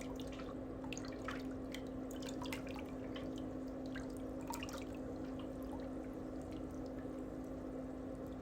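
Steady low hum with many small scattered clicks and ticks, more of them in the first half.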